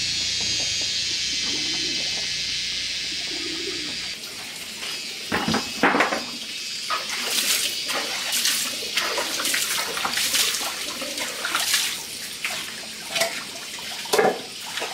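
Water pouring or rushing steadily for about four seconds, then stopping suddenly, followed by a run of irregular short noises.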